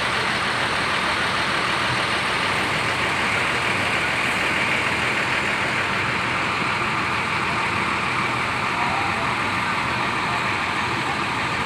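Buses idling in a terminal, a steady engine din with no break.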